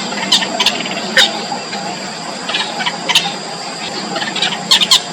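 Yellow bittern nestlings calling from the nest: short, sharp chirps at irregular intervals, several in quick succession near the end, over a steady high-pitched drone.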